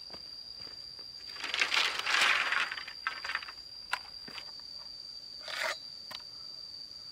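Rustling and scraping of plant material being handled, loudest for about a second and a half starting a second in, then a few shorter scrapes and clicks. A steady high-pitched insect drone runs behind it.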